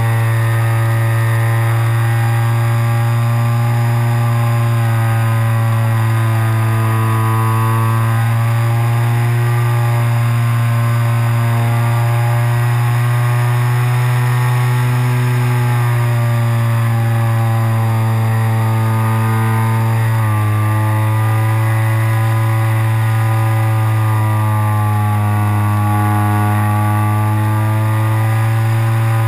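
Motor and propeller of an RC glider running steadily in flight, heard from on board the plane as a loud, even drone. Its pitch wavers and drops about twenty seconds in, then rises again.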